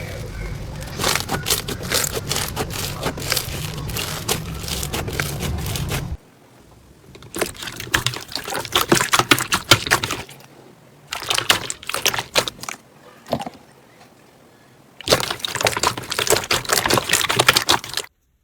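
Slime being squeezed and worked by hand, giving dense wet crackling and popping, in several separate bouts with short quiet gaps between them.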